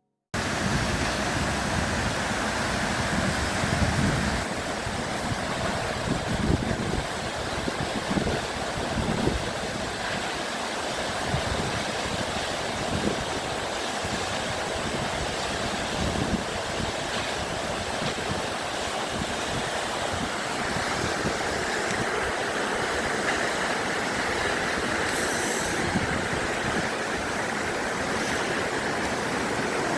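Waterfall rushing in a steady roar of falling water, with an uneven low rumble underneath.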